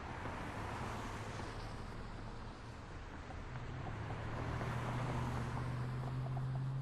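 City street traffic: a steady wash of passing cars, with a heavy vehicle's low engine hum building from about halfway through.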